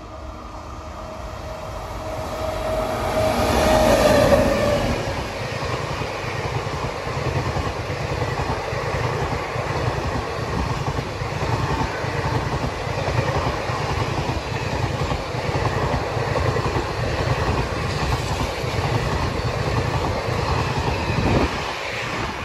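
A passenger train passing at speed. The locomotive's horn tails off as the train draws level, loudest about four seconds in, then the coaches' wheels rumble and clatter over the rail joints steadily. The sound drops away suddenly near the end as the last coach goes by.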